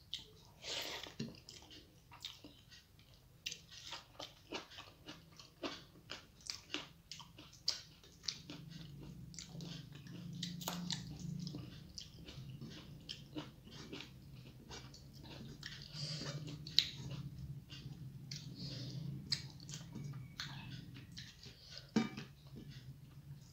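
Close-up chewing of a mouthful of rice and dal eaten by hand, with many short mouth clicks, and fingers mixing rice with dal on the plate. A steady low hum comes in about eight seconds in.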